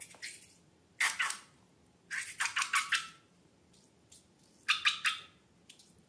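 Slime being squished and squeezed, making short squelching bursts of crackly little pops, about four in a row with pauses between.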